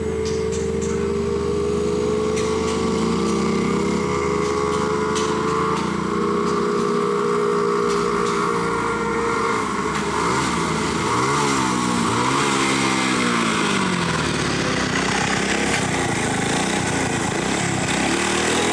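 An engine running steadily, its pitch swinging down and up several times near the middle as it speeds and slows.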